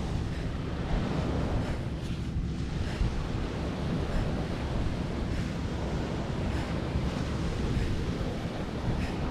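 Gusty wind buffeting the microphone over the steady wash of surf on the beach.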